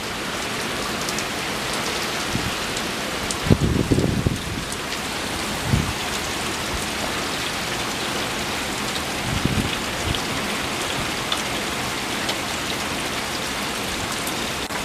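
Heavy, wind-driven hurricane rain pouring down on the ground and pavement, a steady hiss. A few short low rumbles break through about a third of the way in, then twice more.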